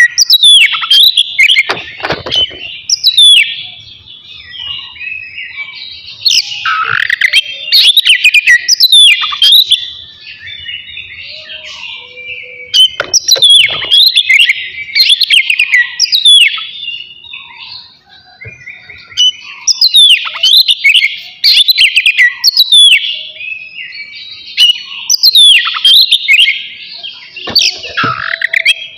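Oriental magpie-robin (kacer) singing loudly: rapid runs of shrill whistles with sharp downward sweeps, in bouts of a few seconds broken by softer twittering.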